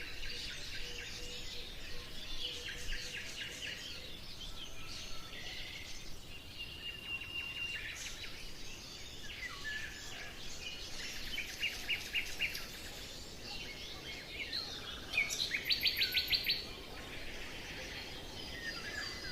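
Several birds singing, a mix of short chirps, whistled notes and trills, over a steady background hiss; a fast, loud trill comes near the end.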